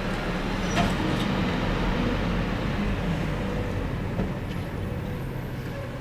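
Garbage truck engine running steadily, with a couple of faint clicks about a second in.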